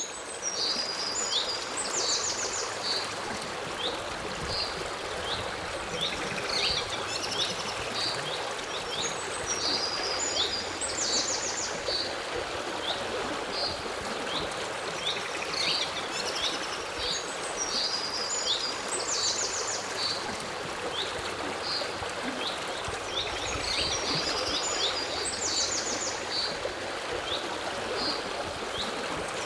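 A stream running steadily, with small songbirds singing over it. Their short chirping phrases, each ending in a rapid trill, repeat every few seconds.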